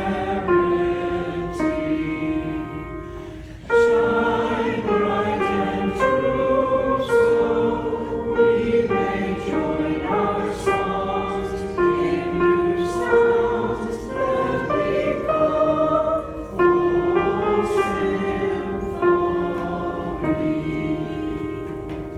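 A slow hymn sung by several voices in harmony, in long held phrases with a brief pause between two of them. The singing fades away at the very end.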